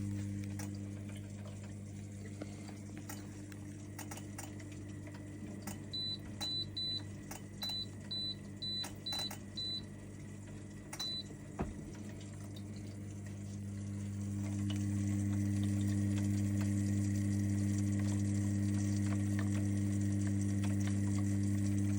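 Lay-Z-Spa hot tub pump unit humming, the hum falling away about a second in and building back up around fourteen seconds, with faint scattered clicking. A run of short high beeps sounds between about six and eleven seconds in: the unit's alarm for an E02 water-flow error, put down to a faulty flow switch sensor.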